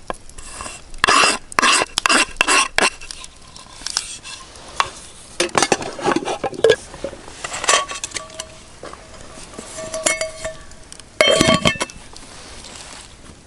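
Metal camp cookware being handled: a series of clattering knocks and clinks, some leaving a short ringing tone, with a loud cluster in the first few seconds and another burst near the end.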